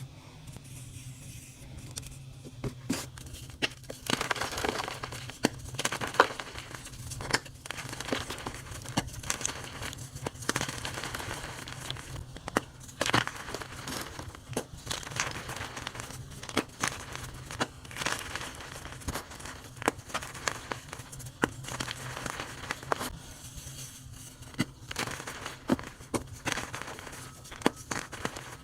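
Dyed gym chalk blocks being crushed and crumbled, a dense run of irregular crunches and crackles with a low steady hum underneath.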